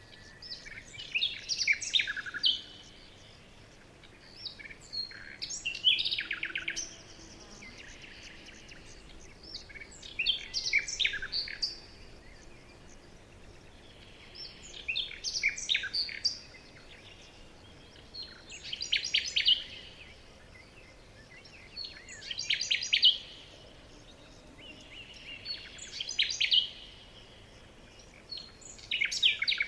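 A songbird singing the same short phrase of chirps and trills over and over, about every four seconds, each phrase falling in pitch toward its end, over a faint steady background hiss.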